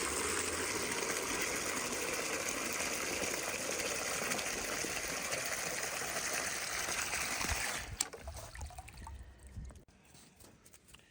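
Water running steadily from a yard hydrant into a chicken waterer, shut off abruptly about eight seconds in.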